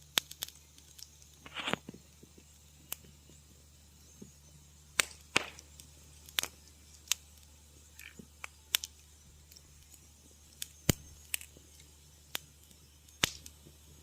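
Fire crackling in a fireplace: irregular sharp pops and snaps, with one short hissing flare near the two-second mark, over a steady low hum.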